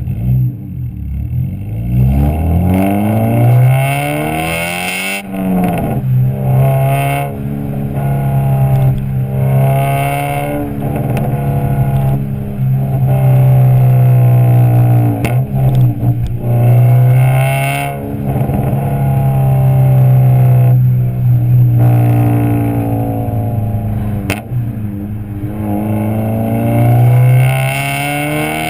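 Honda B16A2 four-cylinder VTEC engine through a Skunk2 Alpha header, decat and Skunk2 Megapower R exhaust, climbing in revs, dropping suddenly about five seconds in, then holding fairly steady revs.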